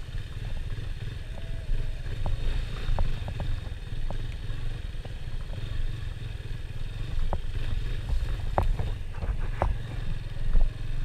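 A vehicle on the move: a steady low rumble of engine and road or wind noise, with scattered light clicks and knocks, more of them late on.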